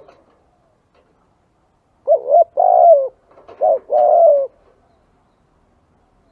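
Spotted dove cooing: two phrases about a second apart, each a short coo followed by a longer one. It is a lure call used to draw wild spotted doves.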